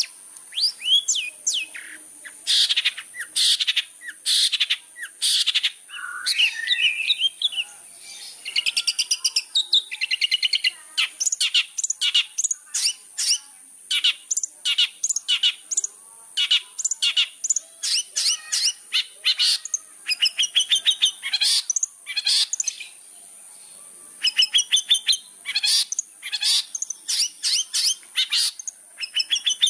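Long-tailed shrike (cendet) singing continuously: fast runs of sharp, repeated chirps mixed with short, varied warbling phrases, with a brief pause a little past two-thirds of the way through.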